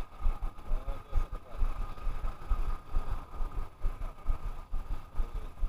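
Wind buffeting the microphone in uneven low rumbles, over a faint steady hum and faint voices.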